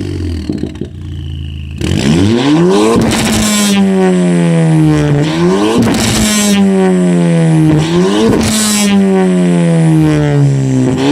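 Ford Fiesta ST MK7's turbocharged 1.6-litre EcoBoost four-cylinder exhaust. The engine is quiet for the first two seconds, then is revved three times. Each rev climbs quickly and falls away slowly, with a burst of hiss or crackle near each peak.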